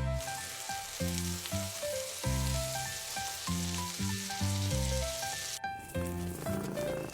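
Food sizzling in hot oil for about five and a half seconds, then cutting off abruptly, over background music.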